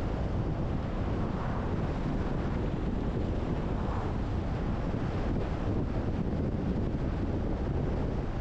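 Steady wind rushing over the microphone, over the low, even rumble of a car driving.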